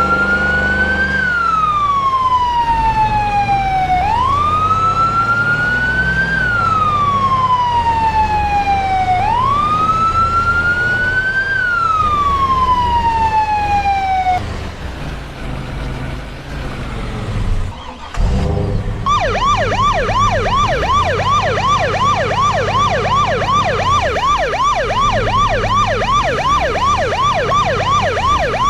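Emergency-vehicle siren wailing in slow sweeps, each rising quickly and falling slowly, about one every five seconds. After a short drop about fifteen seconds in, it switches to a fast yelp, rising and falling several times a second.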